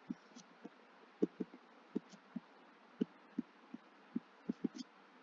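Short, irregular knocks and taps, about three a second, of a pen or marker writing on a surface.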